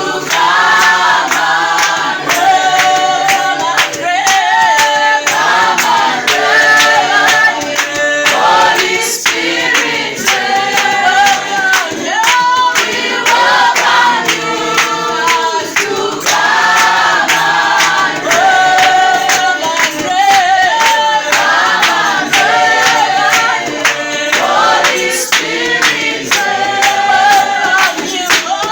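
A choir singing a worship song in parts, with a steady clapped beat.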